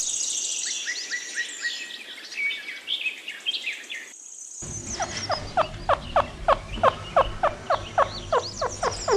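Birds chirping with high, quick notes. After a brief break, a fast series of short falling calls, about four a second, over a low hum.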